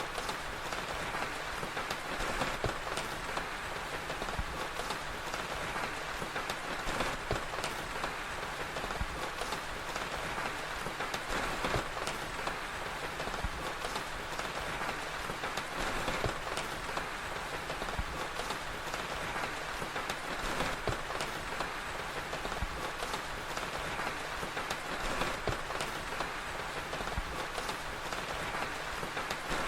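Steady rainfall with a crackling fire, its small pops and snaps scattered irregularly through the rain.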